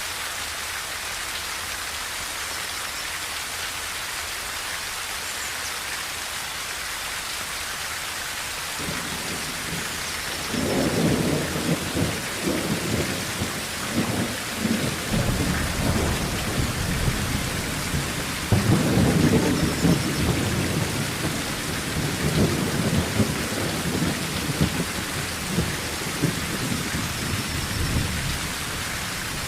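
Steady heavy rain drumming on a tin roof. About ten seconds in, low rolling thunder starts to rumble under it, swelling twice and carrying on to the end.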